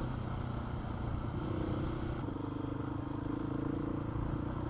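Motorcycle engine running at a steady cruise, with wind and tyre noise on the rider's microphone. The engine note eases down slightly about a second in, and the wind hiss drops about two seconds in.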